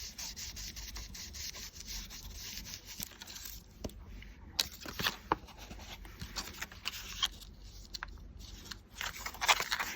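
Craft ink-blending brush rubbing Distress Oxide ink across paper, a steady scratchy hiss for the first few seconds, then lighter strokes with scattered small taps and clicks.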